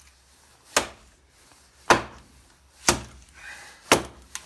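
Oak kindling being chopped into small pieces: four sharp strikes, about one a second.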